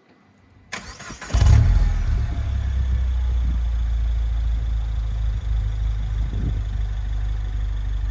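Peugeot 208 GTi's 1.6-litre turbocharged four-cylinder starting through a Musketier stainless-steel quad-tip sport exhaust: a short crank under a second in, a loud flare of revs as it catches, then a steady idle.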